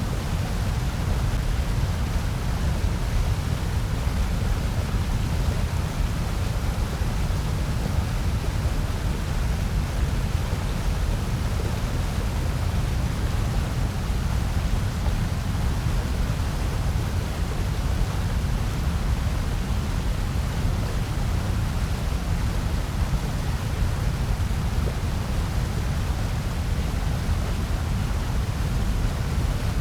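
Steady generated noise track, even and unchanging throughout, with most of its weight in a low rumble and a softer hiss above.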